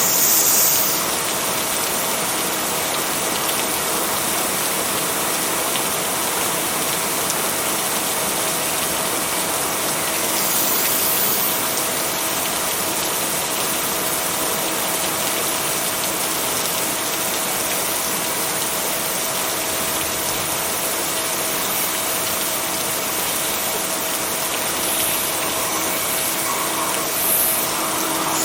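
Steady rain falling, an even hiss that swells slightly near the start and again about ten seconds in. A faint steady hum of two low tones lies beneath it.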